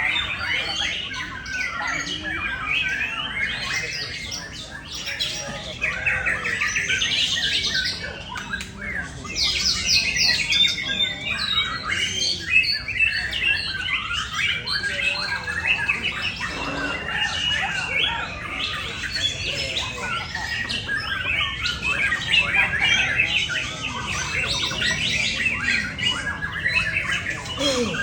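White-rumped shama singing a long, varied song without pause: dense runs of quick notes, with fast trills of rapidly repeated notes.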